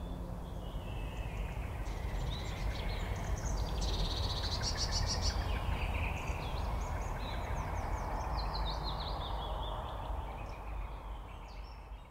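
Several wild birds calling, with chirps, whistled glides and a rapid trill about five seconds in, over a low steady rumble. It fades out near the end.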